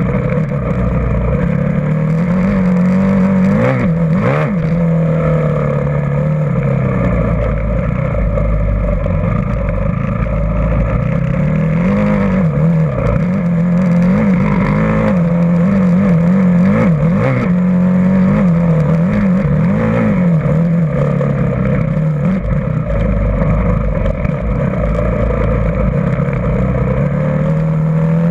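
Motocross bike engine being ridden, its pitch rising and falling again and again as the throttle is opened and closed, with a few quick revs in between.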